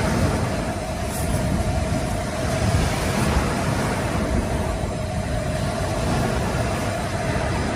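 Wind rumbling on the microphone over waves breaking on a sandy beach, with a steady hum throughout.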